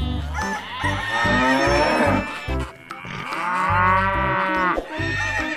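Two long cow moos, each lasting about two seconds, the second starting a little past the middle, over background music with a steady low beat.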